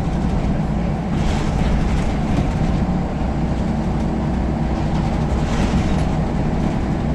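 Scania L94UB single-deck bus running along, its diesel engine a steady drone with a low rumble, with rattling from the bodywork about a second in and again near the end.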